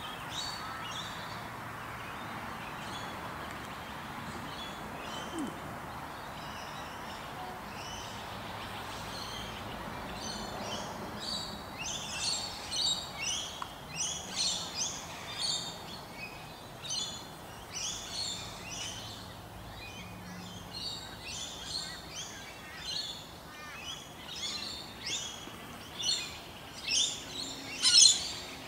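Small birds chirping: many short, high notes, sparse at first and coming thick and fast from about halfway through, over steady background noise.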